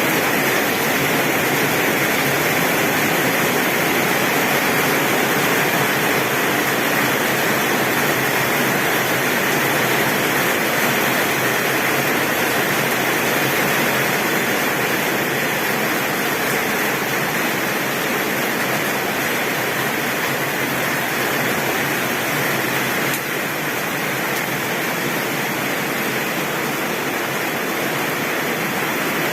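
Heavy rain drumming steadily on a tin roof, a dense, even hiss of water.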